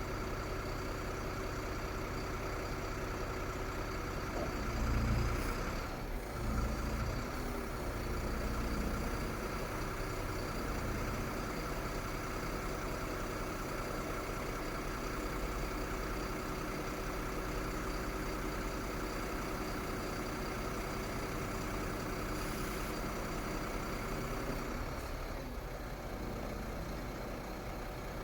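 Iveco Stralis truck's six-cylinder diesel engine idling steadily, with brief surges of low rumble about five and seven seconds in.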